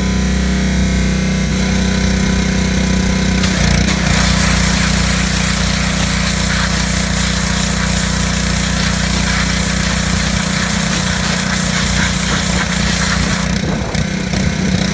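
Pressure washer running steadily, its spray jet hissing on from about three seconds in until near the end.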